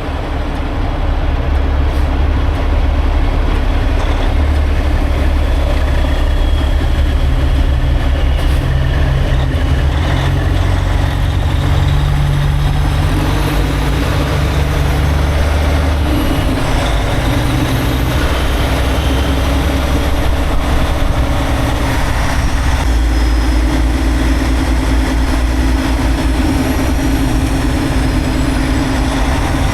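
Semi-truck diesel engine running steadily, its low note shifting a few times, with a faint high whistle that rises and falls.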